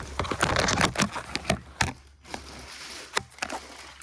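Packaging being handled and unwrapped: rustling and crinkling for about two seconds, then scattered sharp clicks and taps.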